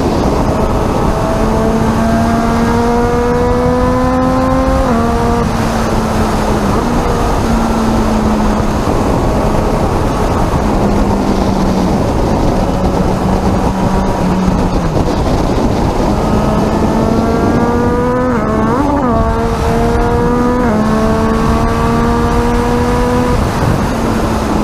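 Racing superbike engine at high speed, its pitch climbing steadily and dropping sharply at several gear changes, over a constant rush of wind and road noise.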